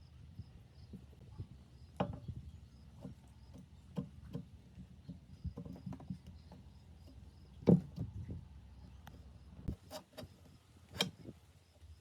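Irregular knocks, taps and clicks, as of hard parts being handled and set down, with a louder knock about two thirds of the way through, over a low steady hum.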